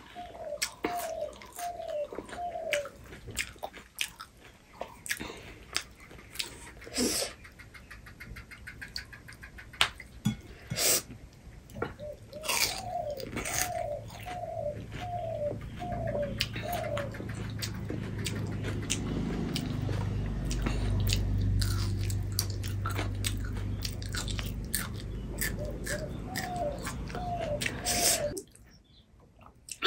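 Crisp pani puri shells crunching and being chewed, one mouthful after another, with many short sharp crunches. A bird calls in runs of short repeated rising notes near the start, in the middle and near the end, and a low hum fills the second half.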